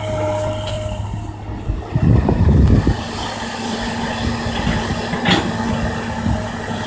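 Kobelco excavator's diesel engine running steadily, with a louder low rumble about two seconds in and a single sharp clank about five seconds in.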